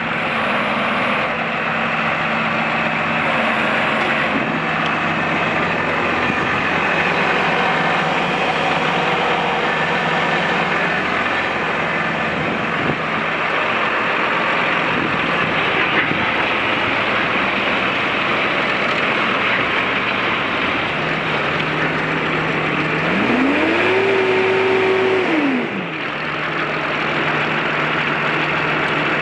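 New Holland TV145 tractor's diesel engine running steadily, revved up about three-quarters of the way through, held there for a couple of seconds, then dropped back.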